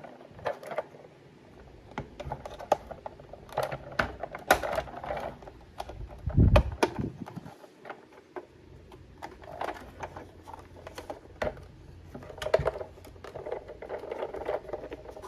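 Hard plastic toy van handled by hand as its roof is opened: scattered light plastic clicks and taps, with a dull thump about six and a half seconds in.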